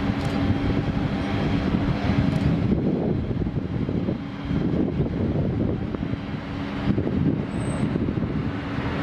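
Jet engine noise from a Boeing 737-800's CFM56-7B turbofans as the airliner comes in to land: a steady, dense rush with a low drone running through it.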